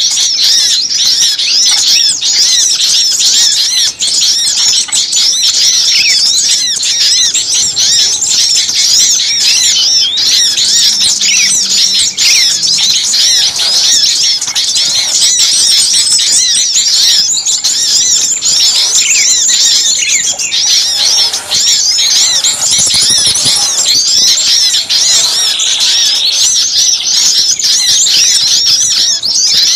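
Dense chorus of many small songbirds chirping and twittering over one another without pause: a bird-lure recording played to call small birds in.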